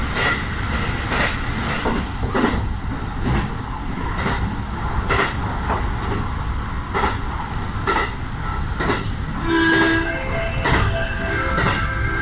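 A 115-series electric train running along jointed track, heard from inside the front car: a steady running rumble with a sharp click about once a second as the wheels cross the rail joints. About ten seconds in, a short tone sounds over the running noise.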